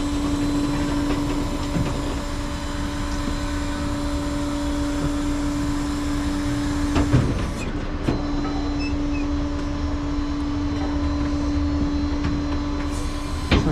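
Flatbed tow truck running with a steady droning hum, and two short knocks, one about halfway through and one near the end.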